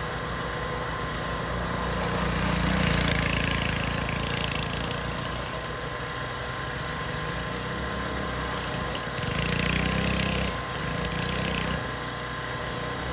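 Small pit bike engines running and revving, growing louder twice: about three seconds in and again around ten seconds.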